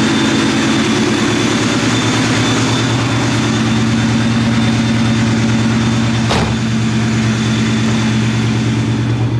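Vortech-supercharged 2004 Mustang GT's 4.6-litre V8 idling steadily, with a thin steady high whine over the engine note. A single sharp click about six seconds in.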